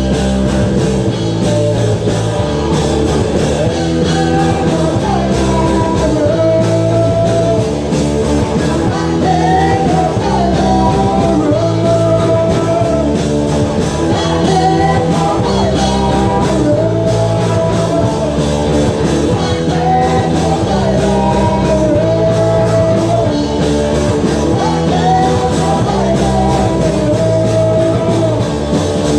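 Live rock band playing a song: guitars and drums, with a held, wavering melody line riding over a steady repeating riff.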